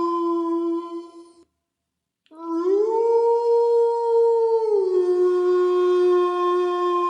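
Canine howling in long, steady held notes. One howl ends about a second and a half in; after a short silence a new howl begins, rises in pitch, holds, then drops back down near the five-second mark and carries on level.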